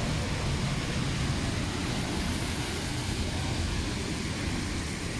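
Heavy rain pouring onto wet pavement and street: a steady, unbroken hiss with a deep rumble underneath.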